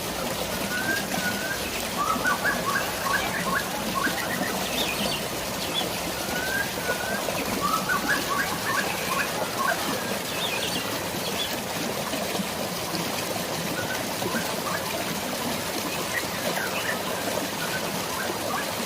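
Birds chirping in quick, short calls over a steady rush of flowing water and rain, the chirping busiest about two seconds in and again around eight seconds in.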